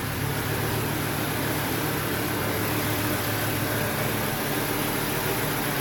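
Volvo 850 T5's turbocharged inline five-cylinder engine idling steadily. Its leaking vacuum hoses have been replaced, and the idle is back to near normal.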